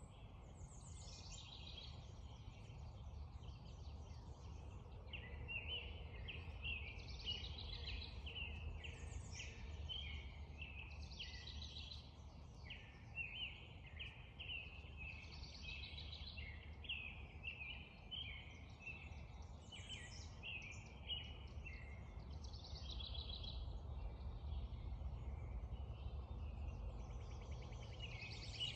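Spring dawn chorus: several songbirds singing overlapping runs of short, quick chirping notes, over a steady low rumble.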